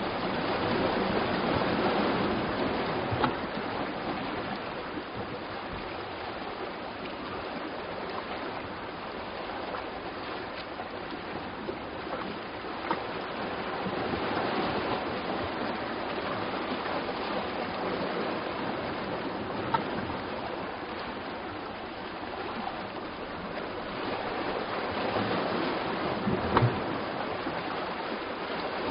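Steady rush of sea surf on a rocky shore, swelling and easing slowly, with a few faint clicks.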